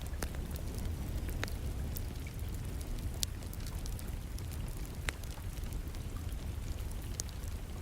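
Wood fire crackling, with a few sharp pops a second or two apart, over a steady hiss of rain and a low rumble.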